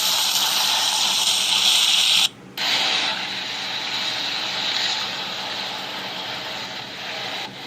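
Steady hiss of car tyres moving slowly through slush and wet snow, briefly dropping away a little over two seconds in.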